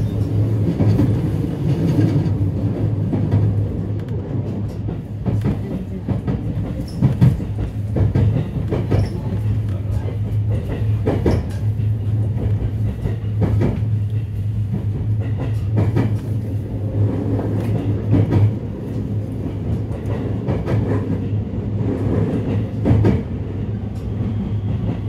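Passenger train heard from inside the car as it rolls into a station: a steady low rumble, with the wheels clicking over rail joints and points every second or few.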